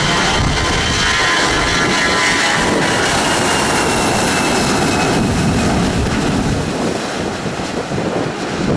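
A fixed-wing airplane's engines passing close, loud, with a high whine that falls in pitch as it goes by and eases off near the end.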